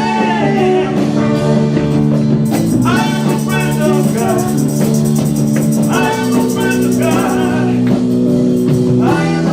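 A live worship band playing a song, with a voice singing over held chords.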